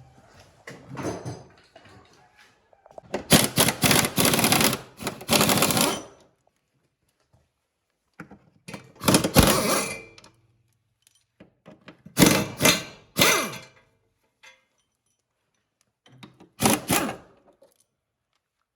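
Impact wrench rattling in four bursts, the longest about three seconds, undoing the driveshaft bolts.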